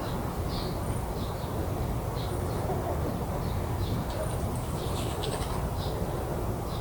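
Small birds chirping in short repeated calls, with a brief cluster of quicker chirps about five seconds in, over a steady low background rumble.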